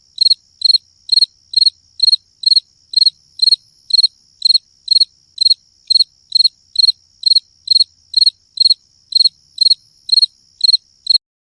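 Cricket-like chirping ringtone: short, high, evenly spaced chirps about two and a half times a second, over a faint steady high whine, stopping near the end.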